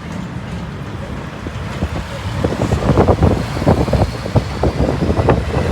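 City street noise: a steady low traffic rumble that grows louder about two and a half seconds in, joined by a quick run of short, irregular crackling knocks.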